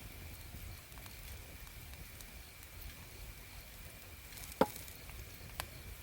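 Meat frying in a pan, a faint steady sizzle with a sharp pop about four and a half seconds in and a smaller one a second later.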